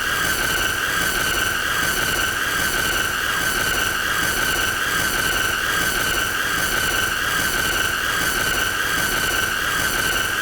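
A continuous high-pitched squealing tone with a slight waver, held at one steady loudness without a break.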